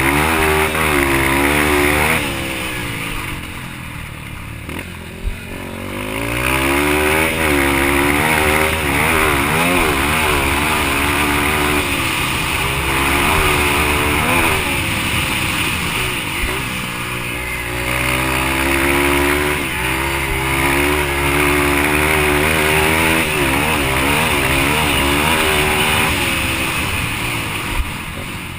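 Yamaha TT-R230 single-cylinder four-stroke dirt bike engine revving hard under racing throttle. Its pitch climbs and drops again every second or two as the rider shifts and backs off. The engine eases to a quieter lull about three to six seconds in.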